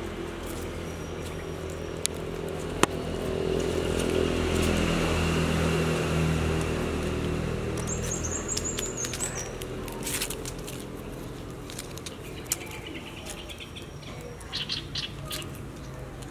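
Birds chirping over a low steady hum, which swells in the middle and fades. There are a few sharp clicks, the loudest about three seconds in.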